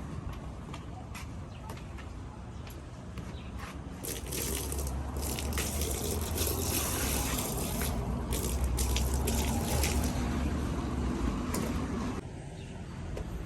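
Water running and splashing while a muddy door mat is washed. It gets louder about four seconds in and drops back near the end.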